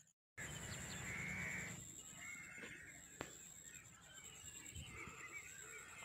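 Birds chirping and calling over faint outdoor background noise, with one sharp click about three seconds in.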